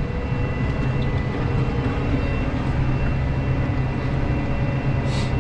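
Farm tractor engine running steadily under way, heard from inside the cab, with a faint steady high whine over the low drone.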